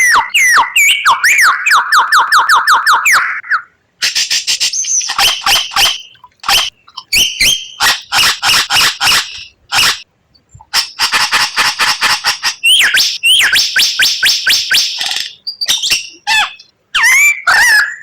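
White-rumped shama singing a fast, varied song: rapid strings of repeated notes, rattling trills and sharp sweeping whistles, in phrases broken by short pauses.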